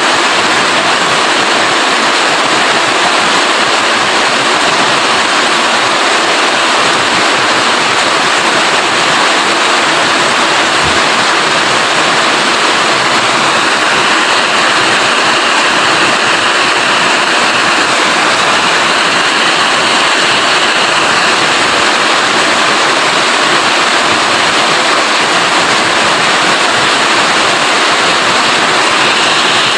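Rain falling steadily, a loud, even, unbroken rush of noise.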